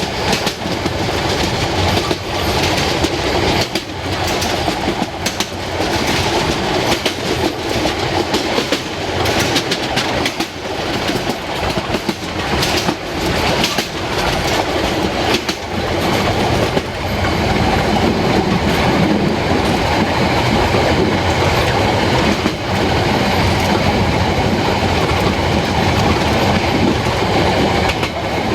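Narrow-gauge train running along the line, with a continuous rumble and wheels clicking over rail joints. About halfway through, the running noise becomes steadier and a little louder.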